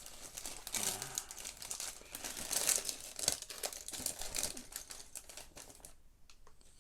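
Plastic parts bags crinkling and small plastic Lego Technic pieces rattling as someone rummages for a part; near the end it thins to a few light clicks.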